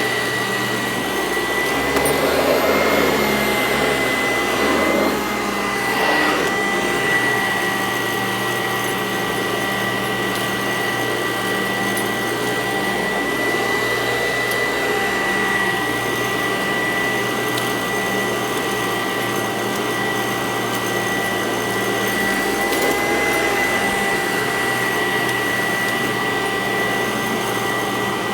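Sanitaire SC886 upright vacuum cleaner running on carpet: a steady motor whine, a little louder and wavering slightly in pitch between about two and seven seconds in as it is pushed over the pile.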